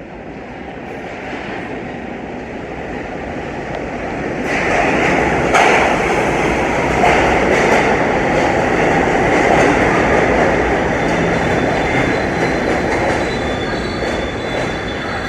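NYC subway train heard from inside an R68 car, its running noise building over the first few seconds into a loud steady rumble as it picks up speed. A few sharp clacks over the rail joints come about five seconds in, and a faint high wheel squeal starts near the end.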